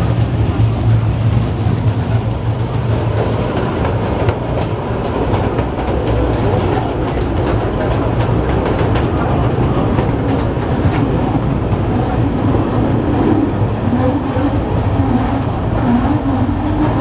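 Kurobe Gorge Railway trolley train running steadily on its narrow-gauge track, heard from an open-sided passenger car: continuous wheel-and-rail running noise with a low hum.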